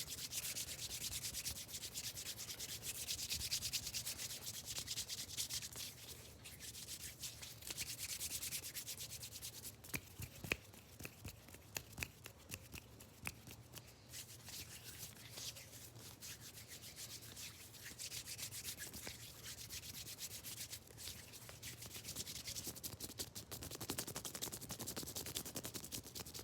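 Hands rubbing quickly against each other, making a dense, rapid rustling hiss, with scattered sharp clicks or taps through the middle part.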